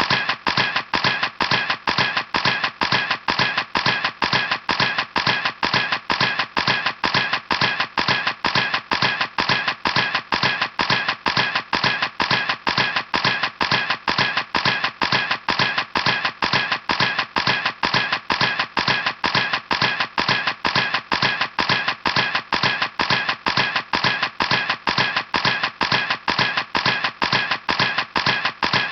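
Camera shutter clicking over and over in a steady rapid series, about three clicks a second.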